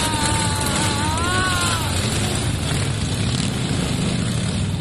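Motorcycle engines rumbling steadily as a parade of bikes rides past. A high, wavering call sounds over them for about the first two seconds.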